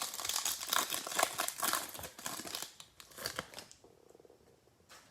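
Crinkling of a plastic trading-card pack wrapper being handled and opened, busy for about three and a half seconds, then dying away, with a single click near the end.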